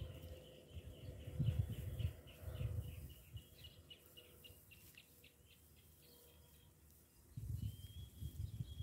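A bird giving a fast, high trill of short repeated chirps for the first few seconds, then a brief held high note near the end. Underneath are low rustling thumps of dry weeds and soil being handled, loudest near the end.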